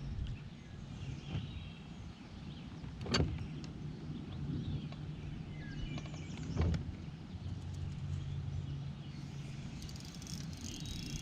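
Electric trolling motor humming steadily, its pitch shifting once partway through, with two sharp knocks about three and six and a half seconds in.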